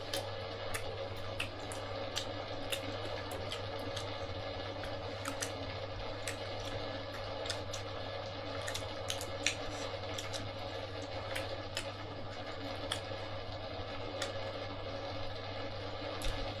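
Eating at a meal: scattered small clicks and clinks, irregular, over a steady low hum.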